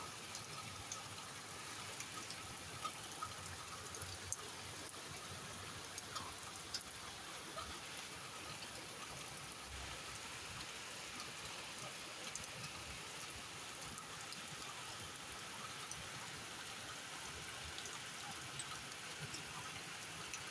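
Steady rain falling, with a constant hiss and scattered sharp drop impacts on nearby surfaces.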